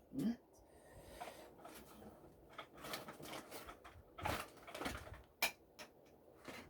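Hard plastic parts of a cordless vacuum's charger being handled and fitted together: a few scattered clicks and knocks with light rustling between them.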